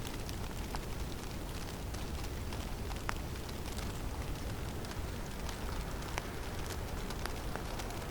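Snowstorm in a forest: wind blowing steadily, a low rumbling hiss, with scattered faint ticks and taps of falling snow.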